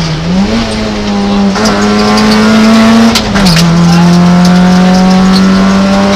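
Peugeot 106 rally car's engine running hard at high revs, heard from inside the cabin. Its pitch dips and recovers at the start, then drops and settles lower about three and a half seconds in.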